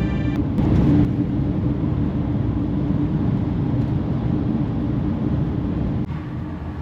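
Vehicle on the move: a steady engine drone with road noise and a low hum, a little quieter about six seconds in.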